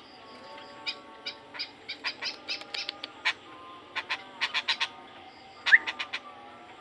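White-breasted woodswallow calling: a rapid, irregular series of short sharp chirps, about three or four a second, with the loudest note sliding quickly upward near the end.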